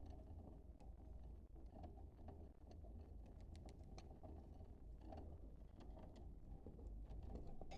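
Faint, scattered short chirps and clicks of budgerigars over a low, steady hum.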